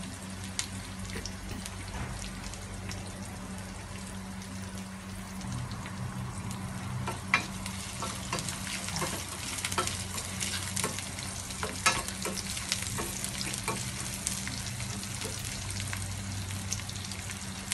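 Sliced shallots, curry leaves and dried chillies sizzling steadily in hot oil in a steel kadai: the tempering for dal, frying until the shallots change colour. A metal spoon clinks against the pan now and then while stirring, sharpest about seven and twelve seconds in, over a low steady hum.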